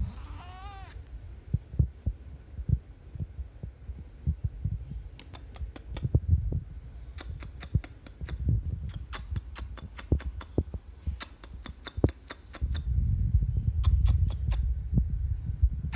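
A cat gives one short, wavering call at the very start, under a second long, its pitch wobbling up and down. After that come low thumps and rumble with many sharp clicks, thickest in the second half.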